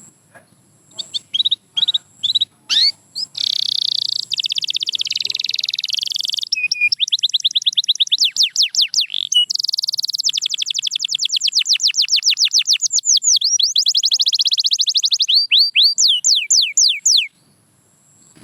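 Canary singing a long song. A few separate chirps open it, then come fast trills of rapidly repeated notes and quick up-and-down whistled sweeps, and the song stops suddenly about a second before the end.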